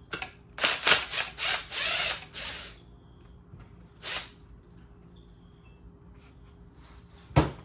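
Tool work loosening a sensor on a 2.0T engine's cylinder head: several short runs of a driver or ratchet over the first couple of seconds, another about four seconds in, then a single sharp knock near the end.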